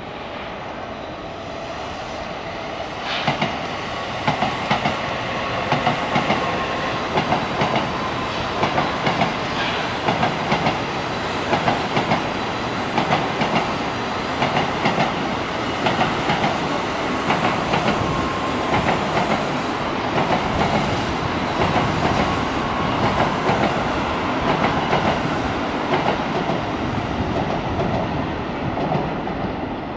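Tokaido Shinkansen bullet train running past, its wheels clicking over rail joints in quick pairs about once a second over a steady rumble. The sound swells about three seconds in and eases off near the end.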